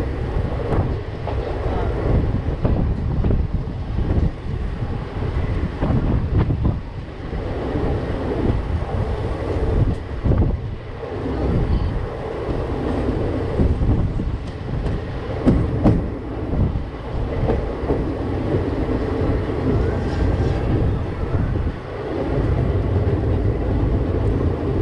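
Passenger train coach running at speed, heard from its open door: a steady rumble of wheels on the rails with scattered clicks from the track.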